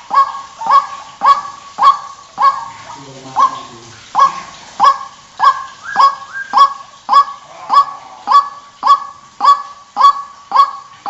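White-breasted waterhen (ruak-ruak) calls used as a bird lure: one sharp, loud note repeated about twice a second, with a short break about three seconds in.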